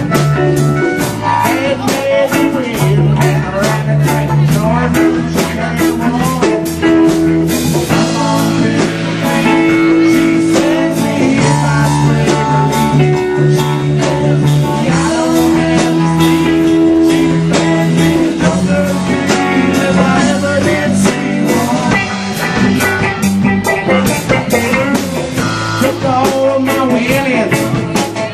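Live rock band playing, with electric guitar, bass and drum kit over a steady beat.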